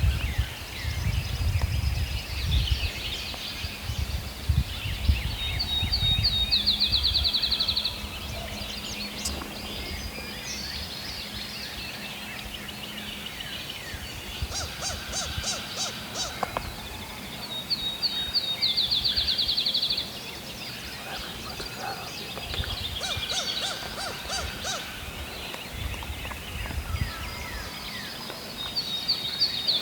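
Wild songbirds singing in spring woods, one bird repeating a short, fast trill three times about ten seconds apart, with two series of sharp, evenly spaced notes in the middle. A low rumble of wind or handling noise on the microphone runs through the first several seconds.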